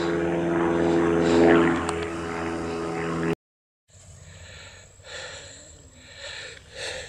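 A steady engine drone holding one pitch, which cuts off abruptly about three seconds in. A much fainter outdoor background follows.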